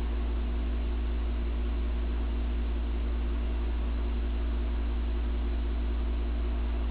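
52-inch Hampton Bay Gazebo ceiling fan running on low speed. A steady motor hum with a few held tones sits over an even hiss of moving air and a strong, steady low rumble.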